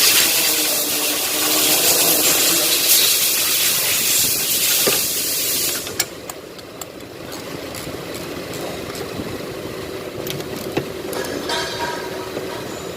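A loud, steady hiss that cuts off suddenly about six seconds in, followed by scattered light metallic clicks and taps of tools.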